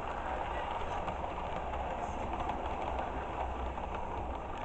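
Model train running steadily around a layout, its motor and wheels on the track giving a continuous rumbling whirr. A single sharp click comes near the end.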